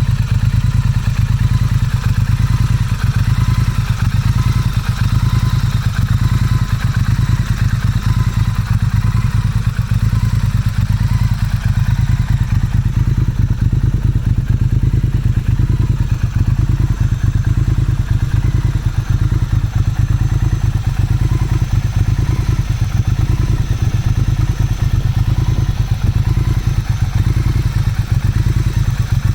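Motorcycle engine running steadily, with no revving.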